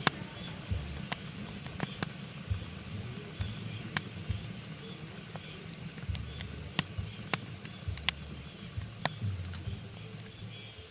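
Pine wood burning in a fireplace, crackling: irregular sharp pops, roughly one a second, over the fire's steady hiss.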